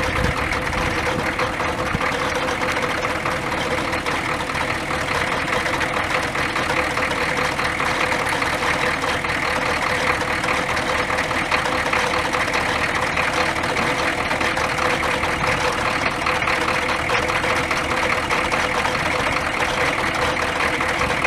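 Old pickup truck engine idling steadily, left running to recharge its batteries.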